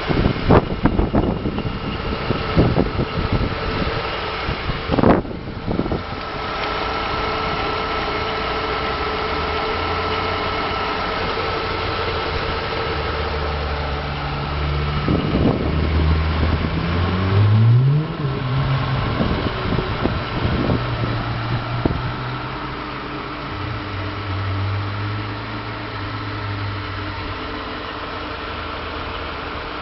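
Daewoo Nubira's 1.6-litre DOHC 16-valve four-cylinder engine (A16DMS) running at idle, with a few sharp knocks in the first six seconds. About halfway through it is revved, the pitch rising and falling a few times, then it settles back to a steady idle.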